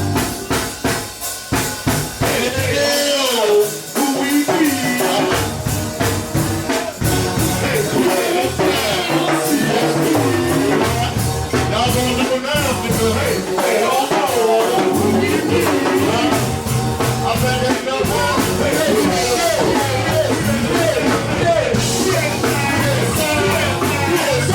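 Live band music: a drum kit keeping a steady beat under a wavering sung or played melody, with a steady bass line.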